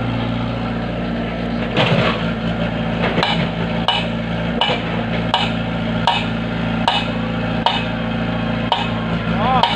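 A steady engine hum with a regular knocking over it: about one sharp strike every three-quarters of a second, starting about two seconds in.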